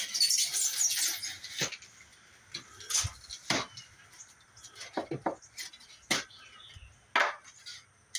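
Rigid foam insulation board being cut with a utility knife and handled: a scratchy scrape in the first second, then a series of sharp clicks and knocks.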